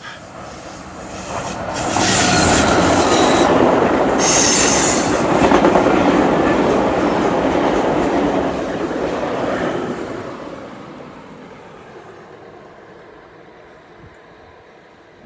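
Amtrak Cascades Talgo passenger train passing at speed, its rumble and rail noise swelling over the first two seconds, staying loud for about eight seconds, then fading away. High-pitched tones ring out about two to five seconds in.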